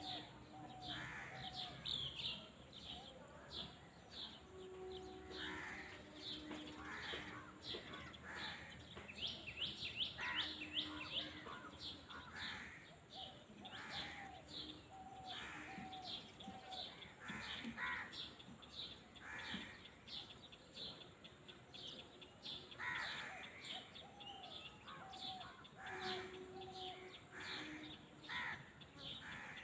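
Outdoor bird chorus: a constant run of rapid high chirps from small birds, with harsher calls repeating every second or two and occasional short, lower, hooting notes.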